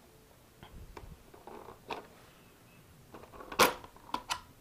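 Handling noise as the plastic body shell of a nitro RC buggy is unclipped and lifted off: scattered small clicks and rustles, with a sharp, loud plastic rustle about three and a half seconds in, followed by a few quick clicks.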